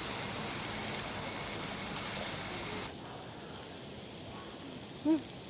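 Outdoor ambience with a steady high-pitched insect drone over a soft hiss. The drone cuts off suddenly about three seconds in, leaving a quieter hiss, and a brief short vocal sound comes near the end.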